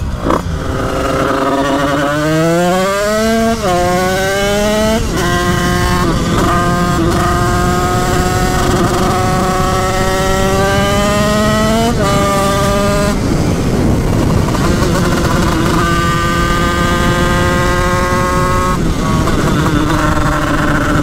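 Yamaha DT's tuned 96 cc Bidalot two-stroke engine under hard acceleration. The revs climb steeply about two seconds in, drop back at gear changes around four and five seconds and again about twelve seconds in, and hold high and steady in between, with wind rush over the microphone. The rider says the engine runs too rich and keeps fouling spark plugs.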